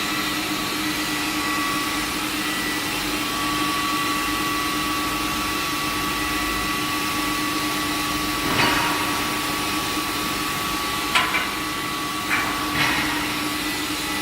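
Railway tie-plate induction hardening line running: a steady industrial hum with several constant tones, broken by four short knocks in the second half.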